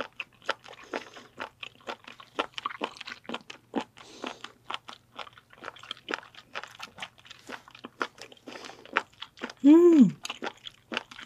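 Close-miked chewing of raw fat innkeeper worm (gaebul, 'penis fish'): a steady run of short, crunchy, wet chewing clicks. Near the end comes a short vocal sound that falls in pitch.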